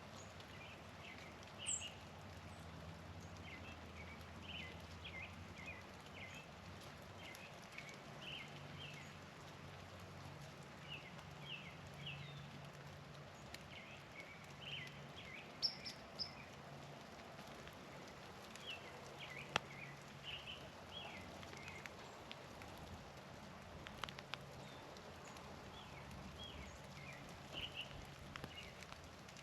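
Small birds feeding in falling snow: an irregular stream of short, soft ticks and chips, with now and then a sharp click, over a faint low hum.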